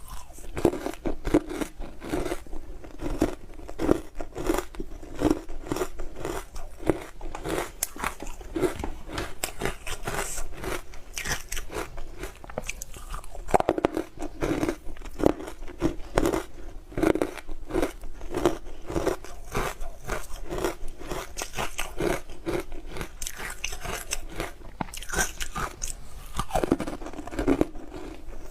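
Hard frozen matcha ice being bitten and chewed close to the microphone: loud, sharp crunching and cracking in a steady chewing rhythm of about two chews a second, with fresh flurries of biting about halfway through and near the end.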